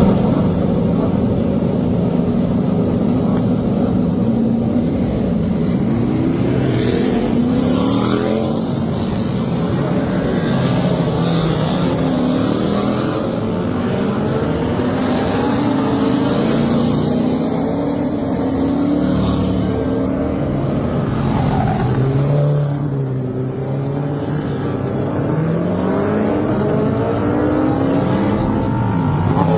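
Superbike racing motorcycle engine at high revs, its note rising and falling over and over as it accelerates, shifts and brakes for corners.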